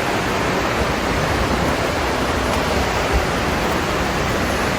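Rushing creek water in a rocky gorge, a steady loud rush, with a soft low bump about three seconds in.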